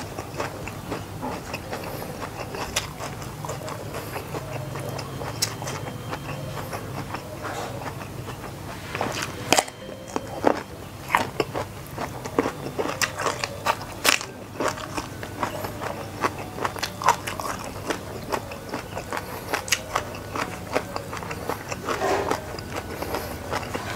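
Close-up chewing and biting of raw vegetables and rice: irregular crisp crunches and wet mouth clicks, with a few louder sharp crunches around the middle.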